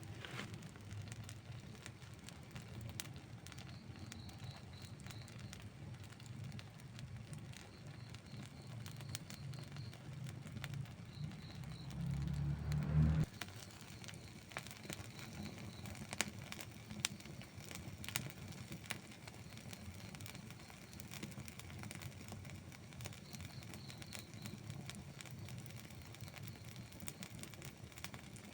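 Outdoor wood campfire burning, with many sharp crackles and pops over a low steady rumble. A louder low rumble swells about halfway through and cuts off suddenly.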